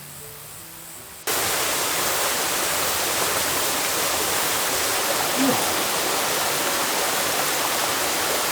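Steady rushing water of a mountain stream, cutting in suddenly about a second in after a few soft music notes.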